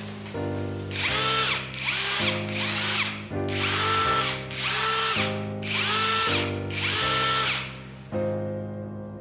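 Parkside Performance PDSSAP 20-Li A1 cordless impact driver run in about seven short trigger bursts, each winding up to a steady whine and spinning back down.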